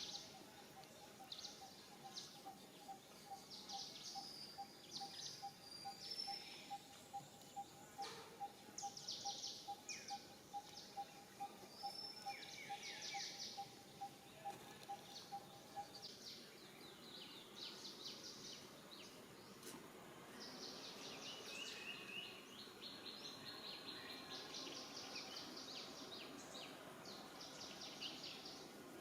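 Birds chirping and trilling, many short calls and rapid trills overlapping, with a steady fast-pulsing note underneath that stops about halfway through.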